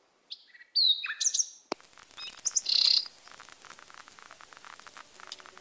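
Birds chirping: short high chirps and quick whistled calls, loudest in the first three seconds, over a dense run of faint clicks from about two seconds in.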